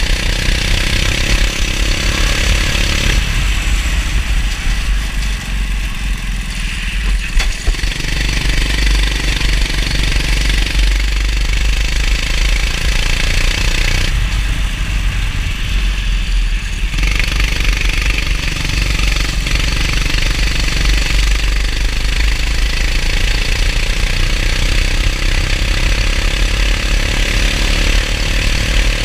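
Kart engine running at speed, its pitch dropping twice as the throttle comes off and climbing again as it picks up, with a steady hiss over it.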